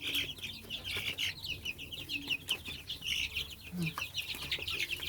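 Young turkey poults peeping: many short, high, downward-sliding cheeps overlapping in a constant stream.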